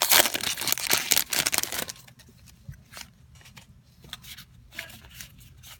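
Booster pack's foil wrapper crinkling and tearing open for about two seconds, then quieter light rustles and ticks of trading cards being handled.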